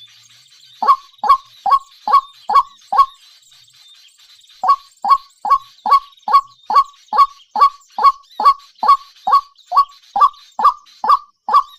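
A bird's call, short falling notes repeated about two and a half times a second: six in a row about a second in, a pause of a second and a half, then an unbroken series from about five seconds in.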